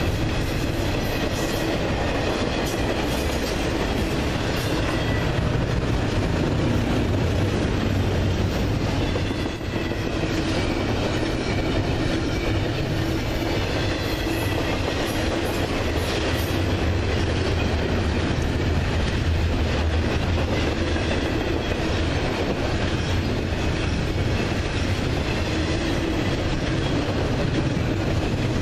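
Double-stack intermodal freight cars rolling past close by: a steady rumble of wheels on rail, with occasional clicks as the wheels pass over rail joints.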